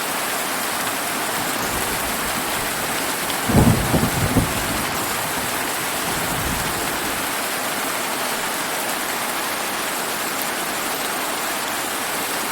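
Steady heavy rain falling, with a rumble of thunder about three and a half seconds in that sounds in a few quick rolls and fades out over the next few seconds.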